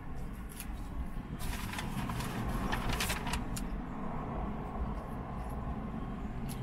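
A person chewing a mouthful of waffle fries, with a run of short chewing clicks from about one and a half to three and a half seconds in. Under it is a steady low rumble in a car's cabin.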